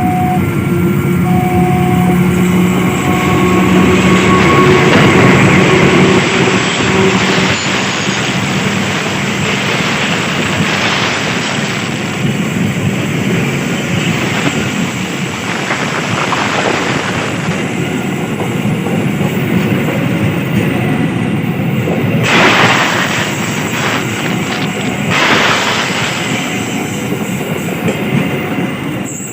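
Diesel train passing close by over a level crossing: the locomotive's engine is loudest in the first several seconds, then the carriages' wheels clatter and rumble past, with two louder surges about 22 and 25 seconds in. The crossing's warning alarm beeps intermittently at the start.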